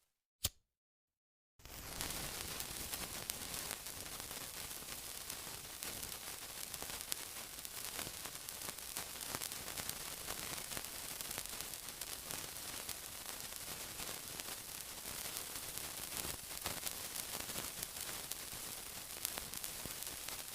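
Silent for about a second and a half, broken by a single sharp click, then a steady sizzling hiss with fine crackles running on.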